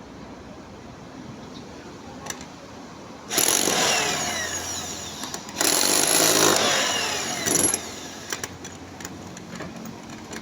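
A power tool works into a concrete hollow-block wall in two bursts of about two seconds each, its pitch sagging under load, with light knocks around them.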